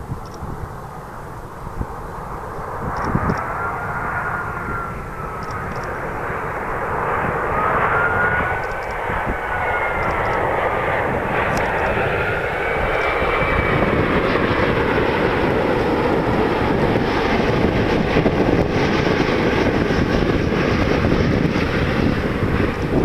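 Jet engines of an Airbus A380-841, four Rolls-Royce Trent 970 turbofans, running with a whine that glides up and down in pitch. The roar builds steadily louder over the first half and then holds.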